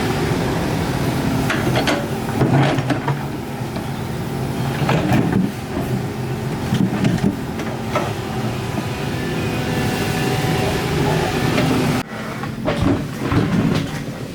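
Excavator engine running steadily under load, with scattered knocks and scrapes from the digging.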